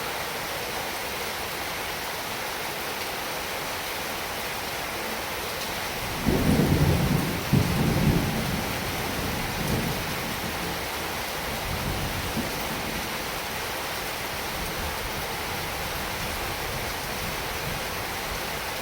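Heavy rain falling steadily, with a roll of thunder about six seconds in that rumbles low and loud for a couple of seconds, then fades out in weaker swells.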